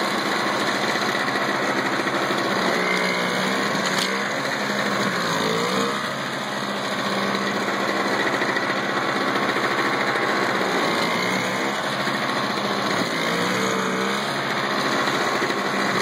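Toro Power Curve single-stage snowblower's small two-stroke engine running steadily while clearing snow, its note sagging and recovering twice as it takes a load of snow.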